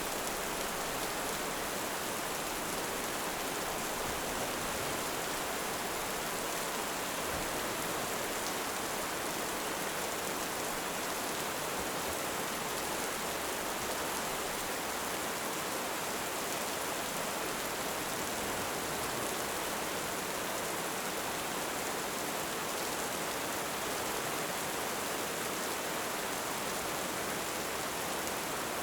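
Heavy rain falling, a steady, even hiss with no swells or claps.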